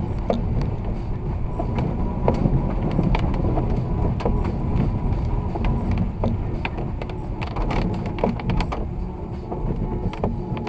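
Car driving on a snow-covered road: a steady low rumble of road and tyre noise, with scattered sharp clicks.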